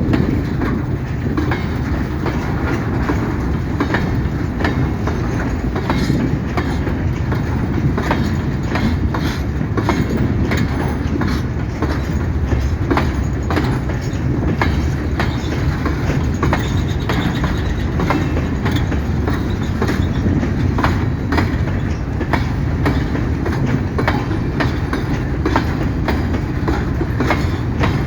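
A long string of empty mining hopper wagons rolling past with a steady rumble. The wheels click sharply over the rail joints many times.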